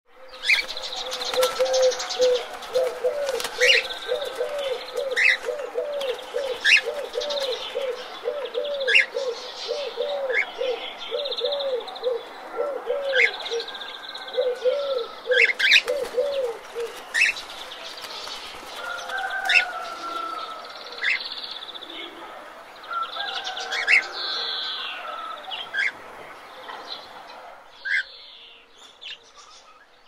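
Several birds calling together: a quick run of low, arched notes, about two a second, for the first half or so, over sharp chirps and high whistles that carry on after the run stops and fade near the end.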